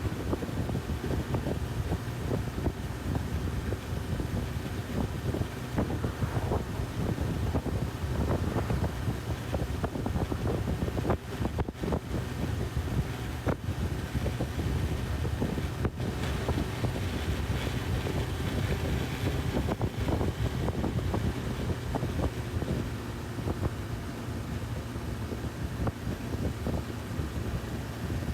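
Honda CB1000R inline-four engine running steadily at riding speed under heavy wind rushing over the microphone.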